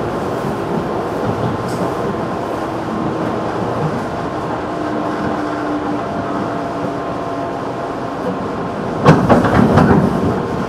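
Running noise of a JR 211 series electric train heard from inside the car: a steady rumble of wheels on rail with a few faint steady tones. About nine seconds in, a sudden louder burst of clatter breaks in and fades over the next second or so.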